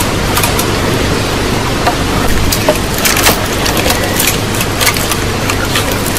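Steady heavy rain, with irregular sharper taps of drops striking nearby surfaces.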